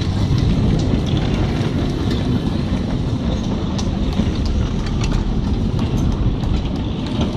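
Heritage tram running along the Heaton Park tramway: a steady rumble from wheels on rails, with scattered clicks over the track.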